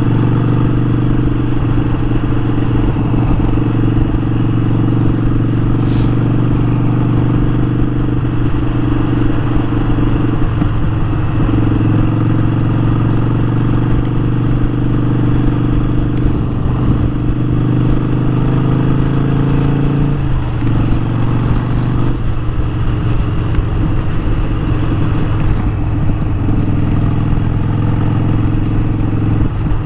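Harley-Davidson Sportster 1200's air-cooled V-twin running steadily under way, heard from the rider's seat. The engine pitch shifts twice, about a third and two-thirds of the way through, as the throttle or gear changes.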